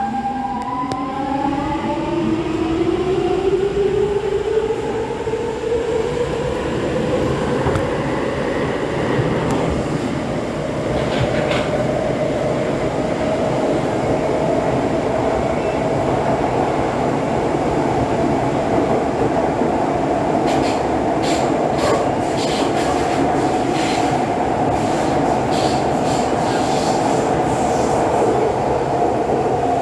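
Interior of an SMRT C651 metro car as the train pulls away. The traction inverter and motors give a rising whine over the first several seconds, then settle into a steady hum over the rumble of the wheels on the track, with a few sharp clicks in the second half.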